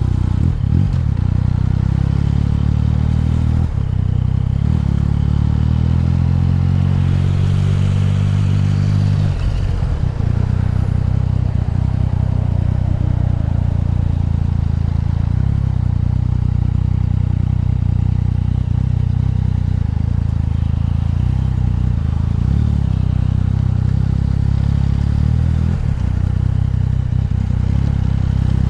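Yamaha MT-09's three-cylinder engine running at low speed while the bike creeps through traffic, its note shifting about 4 seconds in and again about 9 seconds in.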